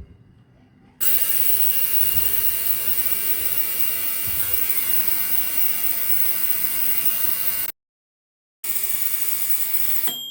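Ultrasonic cleaner running with a steady, loud hiss, which drops out for about a second at an edit. A ding rings out near the end.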